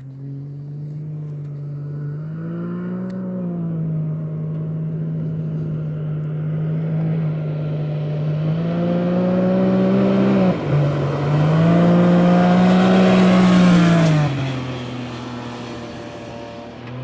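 Can-Am Maverick X3's turbocharged three-cylinder engine running through a titanium exhaust muffler, revving up and down. It builds louder with two climbs in pitch, the second broken by a brief dip, peaks at its loudest, then falls back toward idle near the end.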